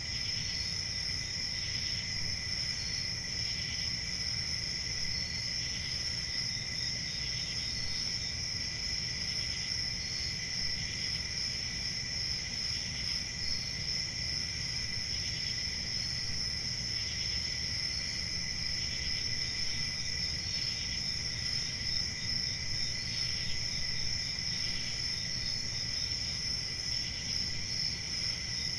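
Crickets chirping in chorus: a steady high trill, with separate short chirps repeating every second or two over it. A low steady rumble runs underneath.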